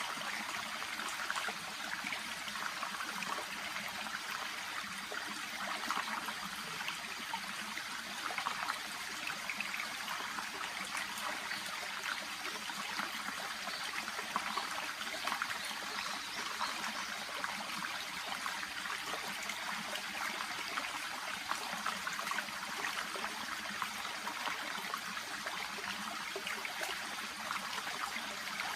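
A small shallow stream running steadily: a constant murmur of flowing water with fine trickling.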